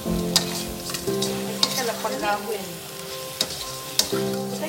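Garlic shrimp sizzling as they fry in a pan, with a utensil clicking against the pan several times as they are stirred. Music with held notes plays underneath.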